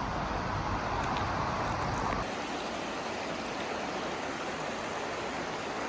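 Low rumble of a car on the move, cut off abruptly about two seconds in and replaced by a steady rushing noise outdoors.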